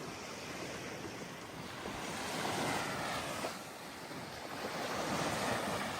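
Surf washing in onto the beach, swelling twice, with wind buffeting the microphone.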